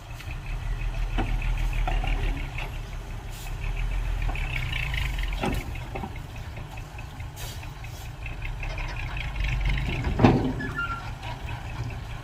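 Heavy diesel engine of earthmoving machinery running, its rumble swelling and easing under load. Several sharp metallic knocks cut through it; the loudest comes near the end.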